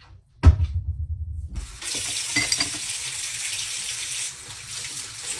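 A thud, then a water tap turned on, water running steadily into a sink, with a small clink of glass or dishware partway through.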